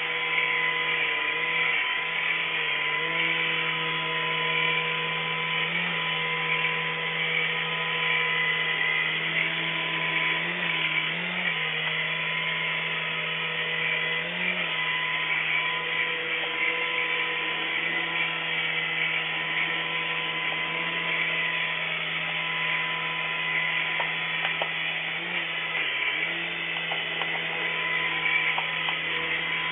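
Small electric rotor motors of a toy RC helicopter whining steadily, with a few brief dips in pitch as the rotor speed changes.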